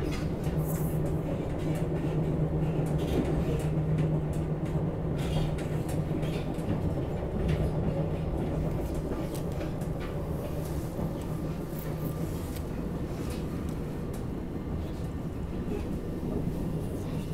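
Inside a SEPTA Regional Rail passenger car under way: the steady rumble of the train running on the rails, with scattered sharp clicks. A low steady hum fades out about two-thirds of the way through.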